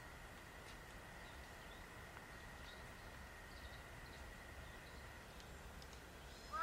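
Faint woodland ambience with a steady high thin tone, a low rumble and scattered faint bird chirps. A crow starts cawing right at the end.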